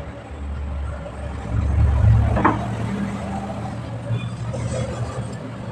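A low, steady motor-vehicle engine rumble that swells about a second and a half in.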